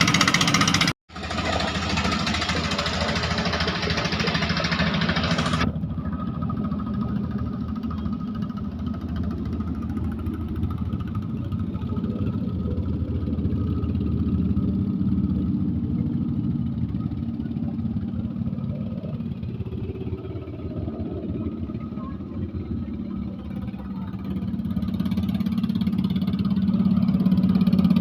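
Klotok (wooden river motorboat) engine running steadily, with a short break about a second in. It grows louder near the end.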